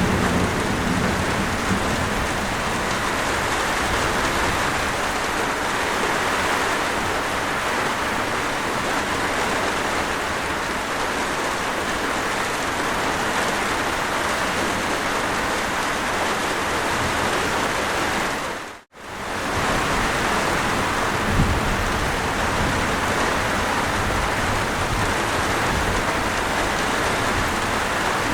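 Steady heavy rain falling, with the tail of a low thunder rumble dying away in the first second or so. About 19 s in, the rain cuts out for a moment and fades straight back in.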